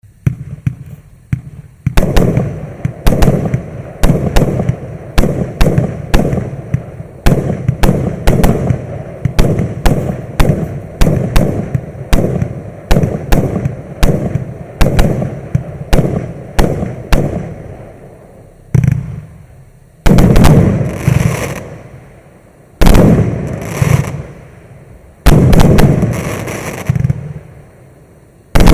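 Maxsem MC121 multi-shot fireworks firing: a rapid run of sharp shots, about two or three a second, for some sixteen seconds. Then a few bigger bangs come two to three seconds apart, each trailing off over a second or so.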